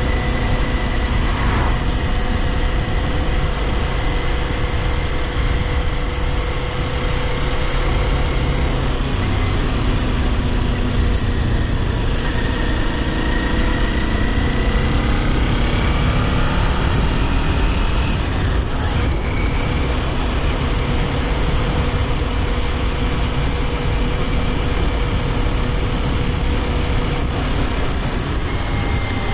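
Kawasaki Ninja 400's parallel-twin engine running under way, over steady wind and road noise. The engine note rises in pitch through the middle, dips briefly, then holds steady.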